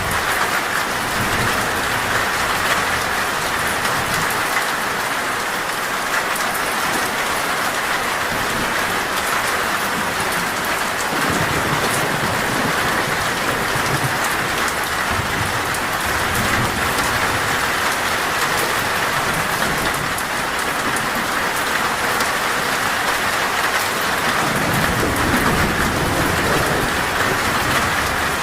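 Heavy, torrential rain falling steadily on a metal roof, with low rolls of thunder rumbling in about eleven seconds in and again near the end.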